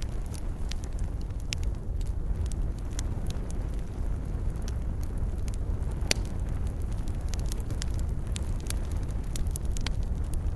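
Campfire burning, with a steady low rumble and irregular sharp crackles and pops of burning wood; one louder pop about six seconds in.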